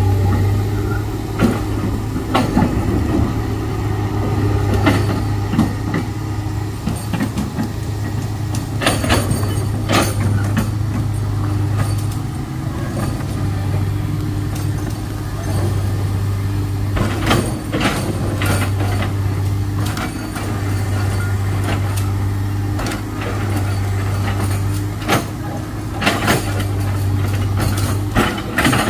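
Heavy diesel engine running steadily, with sharp knocks and clanks every few seconds.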